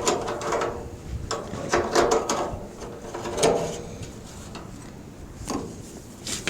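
Hard parts of a tractor being handled during a pre-start check: a series of separate knocks, clicks and scrapes, a second or so apart, with a short ringing after the louder ones.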